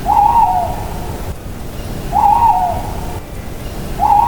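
Owl hooting: three hoots about two seconds apart, each dipping slightly in pitch at the end, over a steady background hiss.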